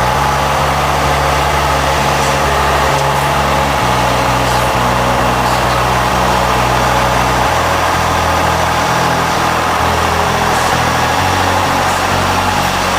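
1953 Cessna 170B's six-cylinder Continental engine and propeller droning steadily in flight, the low engine tones stepping slightly in pitch a couple of times.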